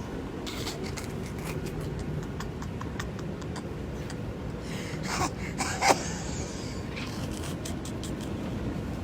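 Subway car running with a steady low rumble, and a few short sharp noises rising above it about five to six seconds in.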